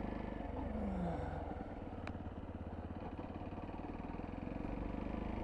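Sinnis Terrain 125cc motorcycle's single-cylinder engine running while riding, with its note falling briefly about a second in as the revs drop. A single sharp click about two seconds in.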